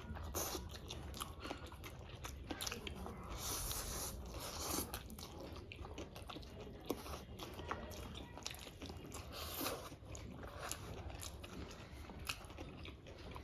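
Close-miked eating: crunchy bites and chewing, with many short clicks and smacks throughout.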